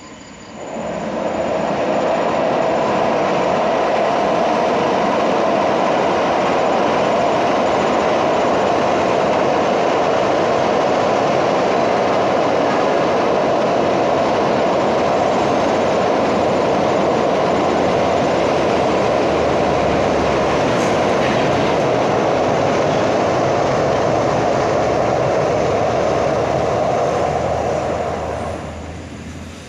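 Train passing close by, its wheels running on the rails with a steady loud rumble and a high ringing tone. The noise rises quickly about a second in and dies away near the end.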